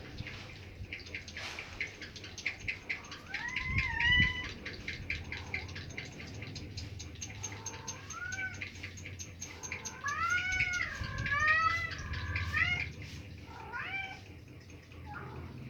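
Domestic cat grumbling in a series of drawn-out meows that rise and fall in pitch, the longest and loudest run coming about ten to twelve seconds in. A fast run of faint clicks sits underneath through the first part.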